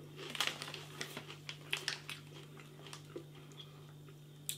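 Close-up crunching and chewing of light, airy puffed pork rinds (chicharon pork crunch): a quick run of crisp cracks in the first two seconds, thinning to occasional crunches later, over a steady low hum.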